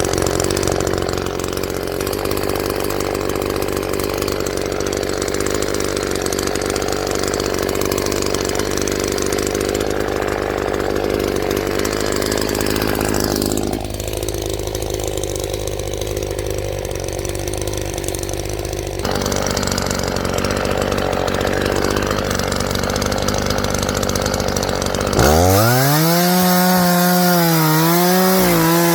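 Echo two-stroke chainsaw running steadily. Near the end the engine revs up sharply to a high whine, and its pitch wavers as it works through wood.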